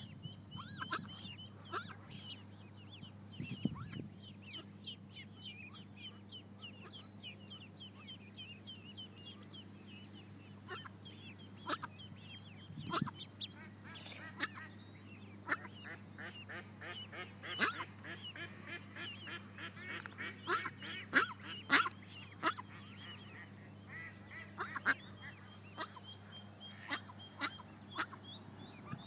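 Ducklings peeping: many short high-pitched calls in quick runs, with sharp clicks close by that come thicker in the second half.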